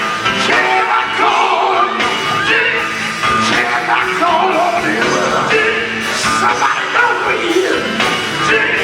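Gospel singing group performing live, a lead voice sliding and bending between notes over band accompaniment.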